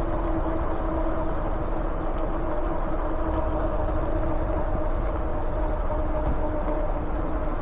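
An e-bike on the move: a steady rumble of wind and tyre noise with a steady whine over it.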